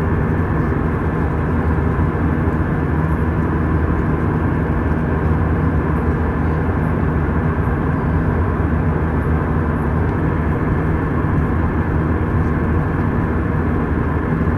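Steady cabin noise of an Airbus A319 airliner in flight: a constant roar of jet engines and rushing air, heard from inside the cabin, with no change in level.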